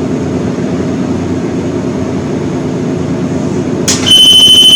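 Steady low hum of room machinery, like an air conditioner. About four seconds in there is a click, then a loud, high electronic beep lasting under a second.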